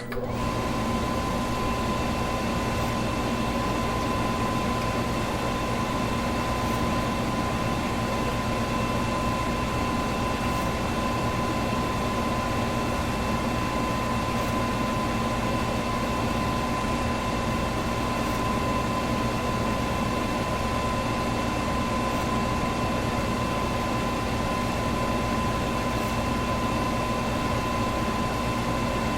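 Electric fan running steadily: an even rush of air with a steady hum and a clear whine from the motor.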